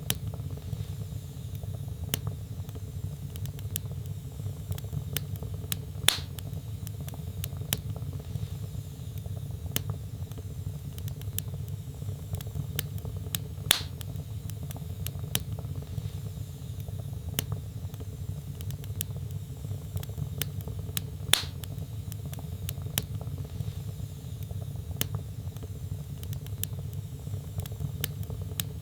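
Wood fire burning in a fireplace: logs crackling with frequent small sharp clicks over a steady low rumble. Louder pops come about every seven or eight seconds.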